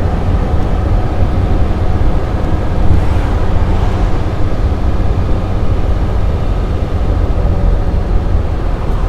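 1955 Mercedes 300 SL Roadster's 3.0-litre straight-six running on the move, a loud steady low rumble of engine and road noise.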